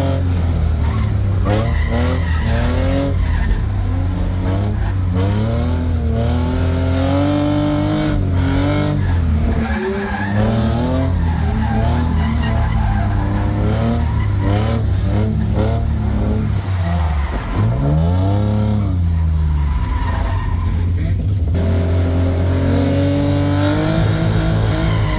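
Drift car's engine revving up and down hard through repeated throttle blips, with tyre squeal as the car slides. About three quarters of the way through, the revs drop low and climb again.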